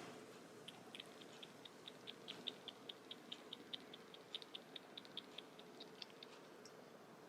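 A rapid, even run of faint clicks, about four to five a second, lasting some six seconds.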